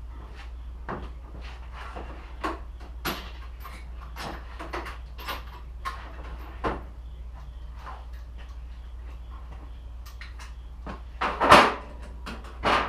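Irregular knocks and clicks from handling tools and parts, with two louder knocks near the end, over a steady low hum.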